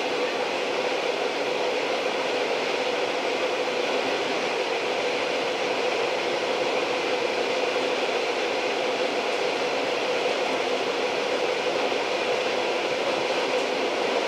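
Old train running steadily: an even, continuous rolling noise with a steady hum running through it.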